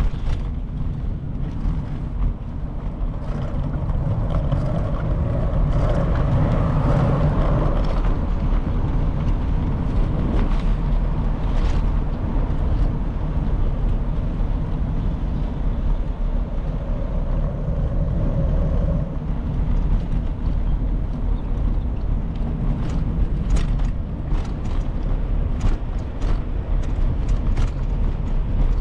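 Wind rumbling on the microphone during a bicycle ride, mixed with road traffic going by; a passing vehicle swells up twice, and a series of sharp clicks and rattles comes near the end.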